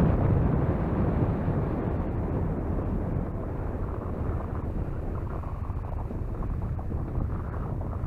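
Wind buffeting the microphone over a low, steady rumble, as on the open deck of a ferry under way. It is a little louder in the first second.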